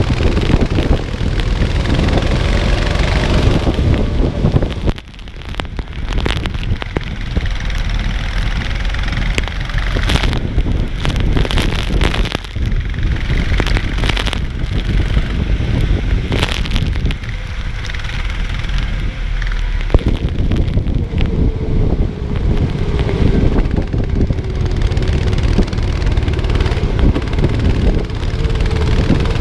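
Go-kart engine running under heavy wind buffeting on the microphone, its pitch drifting up and down faintly beneath the noise. It is racing on a wet track in the rain, with a brief dip in loudness about five seconds in.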